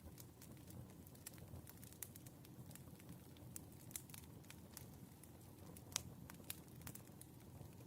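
Firewood burning with faint crackling: scattered sharp pops over a low, steady rumble, the sharpest pop about six seconds in.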